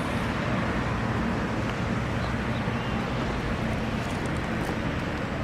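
Diesel bus engine running steadily, a low hum under a broad rush of engine and road noise.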